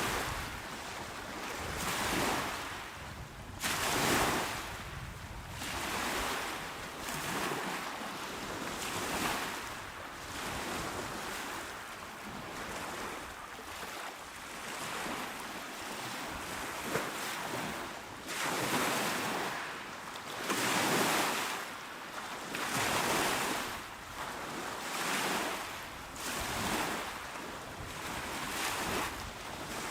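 Calm sea waves washing onto a shore, each swell rising and falling every couple of seconds, with a light rush of wind.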